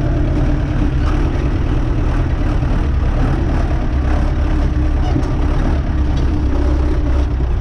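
Renault 651 tractor's diesel engine running steadily while driving, heard from inside the cab.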